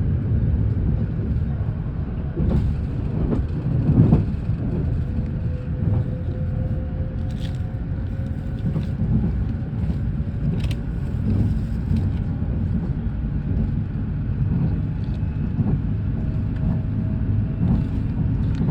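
Steady low rumble of a train running, heard from inside the passenger car, with scattered clicks and knocks and a faint whine for a few seconds.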